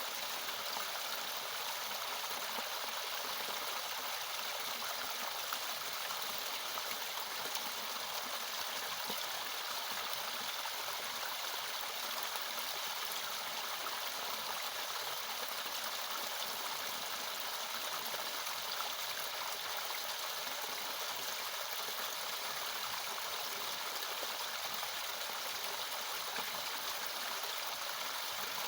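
Natural mountain waterfall: water falling and splashing in a steady, even hiss with little low rumble.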